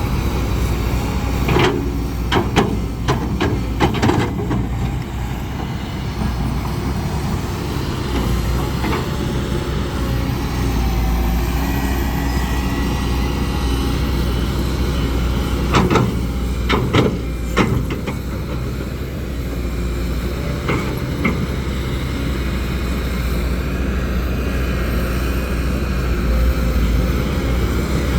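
Heavy earthmoving machinery's diesel engine running steadily under load, with sharp metallic clanks in short clusters a couple of seconds in, around two-thirds of the way through, and once more shortly after.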